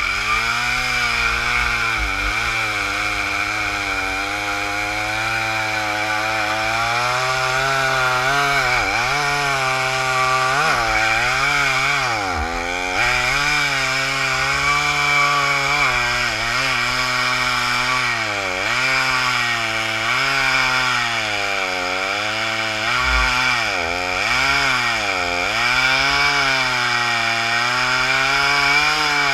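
Stihl MS 460 Magnum two-stroke chainsaw with a 28-inch bar cutting through a tree trunk. The engine pitch sags again and again as the bar loads in the cut and then picks back up, and the chain is worn out.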